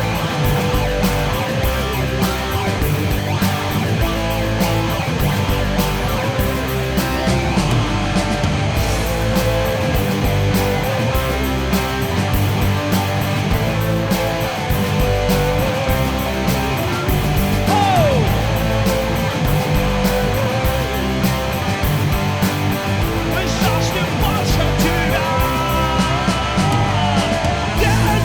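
A rock-style worship song played by a band in an instrumental break, with electric guitar over a steady drum beat.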